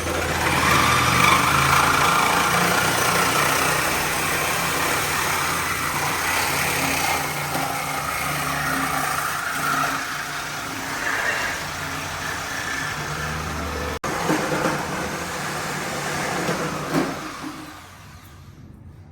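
A Mercedes-Benz 300CE's M103 inline-six runs steadily, a low engine note under a broad hiss. The sound breaks off abruptly about 14 seconds in and falls away near the end.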